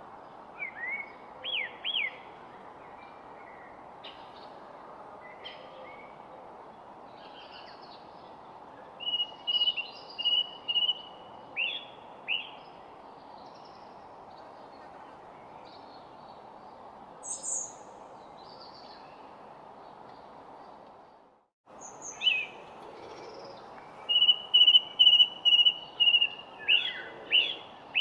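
Songbirds calling and singing: short chirps, whistled notes and held trills over a steady outdoor background hiss. About three-quarters of the way in the sound drops out for a moment, then a louder, quick series of repeated sharp notes follows.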